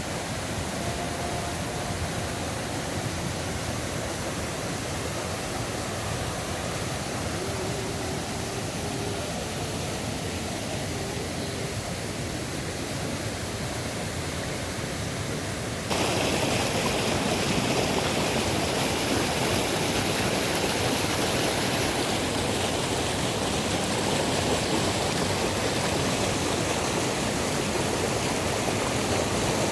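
Steady rush of flowing water from a mountain stream, stepping up abruptly louder a little over halfway through.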